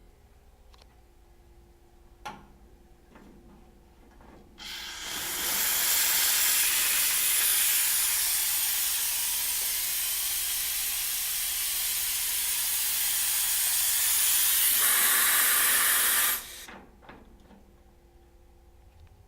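Steam wand of a Futurmat lever two-group espresso machine being opened: after a few light clicks, a loud steady hiss of steam starts about four and a half seconds in, turns higher-pitched near the end and cuts off abruptly after about twelve seconds.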